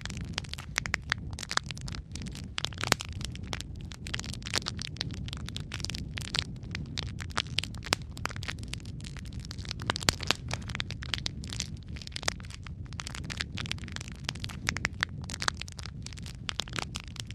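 Wood fire crackling in a fireplace: a steady low rumble of flames with frequent sharp pops and snaps.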